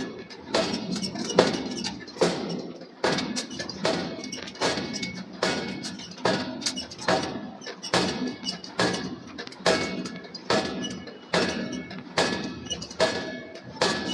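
Hammer blows striking hot steel on an anvil in a steady forging rhythm, about three strikes every two seconds, each with a short metallic ring.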